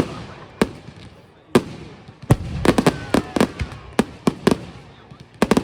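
Firework display: aerial shells bursting in a rapid, irregular run of sharp bangs, each with an echoing tail, with a tight cluster in the middle and another near the end.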